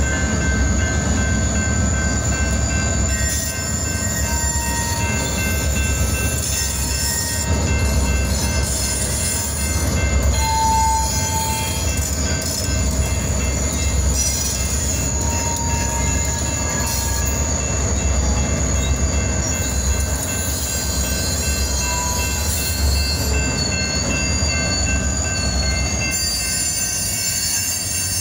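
A freight train passing close by: EMD GP-series four-axle diesel locomotives go past with a steady heavy rumble, followed by freight cars rolling over the rails.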